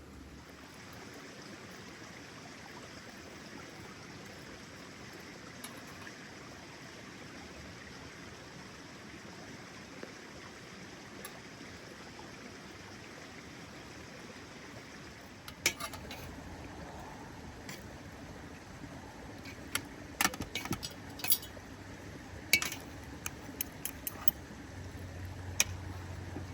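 A steady background hiss, then from about halfway through a scatter of sharp clinks, like utensils knocking on dishes or glass.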